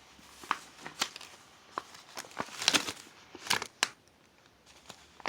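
Plastic packaging crinkling and small items clicking and tapping as they are handled, in a string of short rustles and taps.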